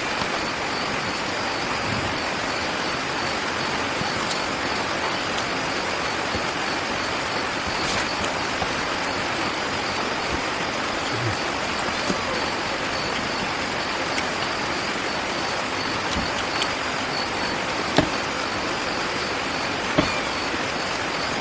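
A steady, even rushing noise, with a few sharp clicks near the end.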